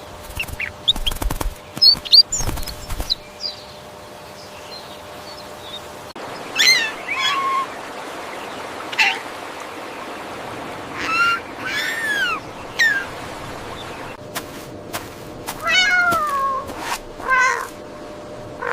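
Cats meowing: a string of separate meows, several rising and falling in pitch, from about six seconds in. The first few seconds hold short high squeaks and a few knocks.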